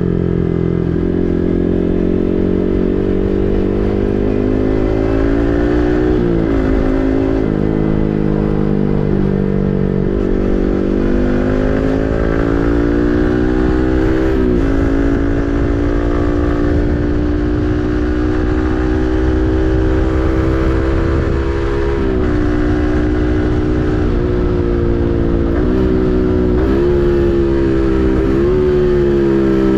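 Yamaha MT-15's 155 cc single-cylinder engine through an SC Project full-system exhaust, pulling through the gears while riding. The engine note climbs in pitch and then drops sharply at each upshift, about six times.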